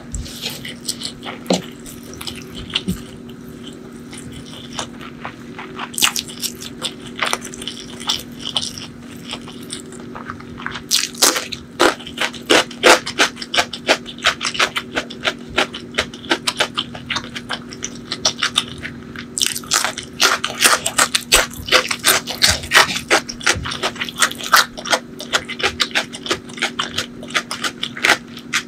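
Close-miked chewing of a mouthful of curry-mixed rice, with crunching and wet mouth clicks and smacks. The chewing is sparse at first and grows busier about eleven seconds in, then again near twenty seconds.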